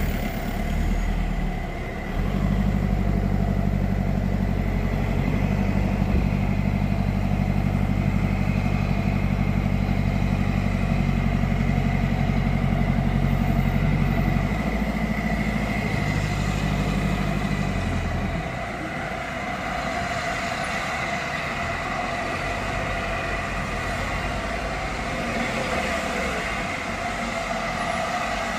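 A heavy engine running steadily with a low hum, which stops about eighteen seconds in, leaving a steady hiss and rumble.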